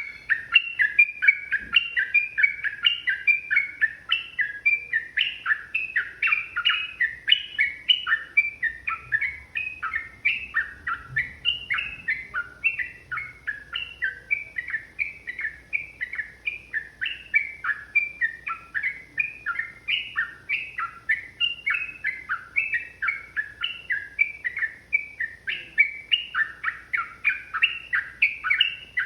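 Sooty-headed bulbul singing a long unbroken run of short chirping notes, about three a second.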